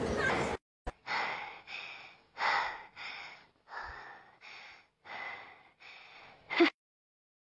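A cartoon character breathing hard: about ten quick, breathy puffs in and out, each under half a second. A brief sharper sound comes near the end.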